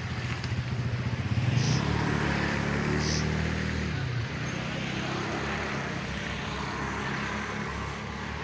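Motor vehicle engine running along a road, growing louder and higher to a peak about two seconds in, then easing back around four seconds, over steady road noise.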